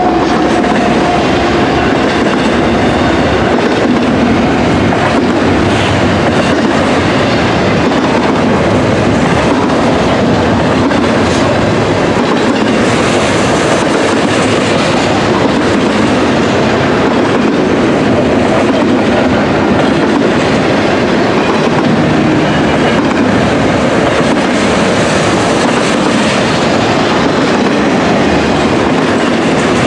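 BNSF double-stack intermodal freight train, its container-laden well cars passing close by at speed: a loud, steady rush and rattle of steel wheels on the rails.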